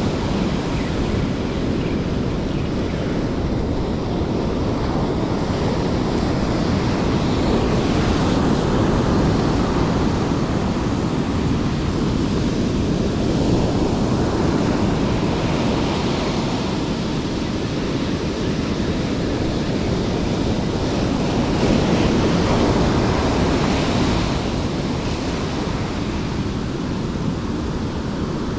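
Steady rush of surf breaking on the shore, with wind buffeting the microphone; the noise swells slowly louder and softer.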